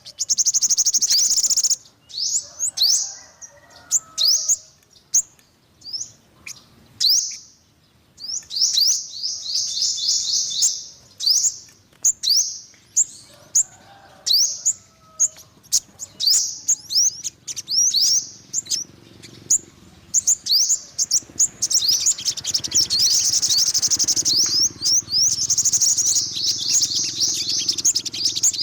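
Yellow-bellied sunbird singing: runs of quick, thin, high chirps and trills broken by short pauses, becoming a dense, continuous trill in the last several seconds.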